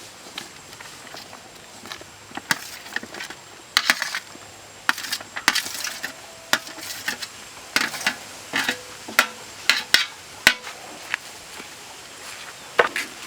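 Kitchen utensils at work: a series of irregular sharp knocks and clinks, some with brief scrapes between them.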